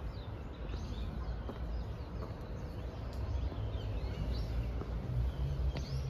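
Small birds chirping and twittering again and again, over a steady low rumble.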